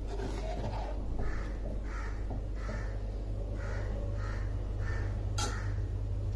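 A bird calling over and over, about eight short calls roughly two-thirds of a second apart. A steady low hum runs underneath, and a sharp click comes about five seconds in.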